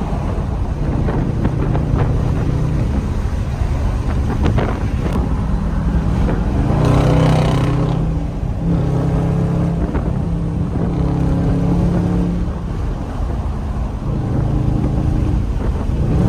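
Dodge Scat Pack's 6.4-litre 392 HEMI V8 running on the move through a mid-muffler-delete exhaust. The engine note steps up and down in pitch several times, with a louder burst of throttle about seven seconds in.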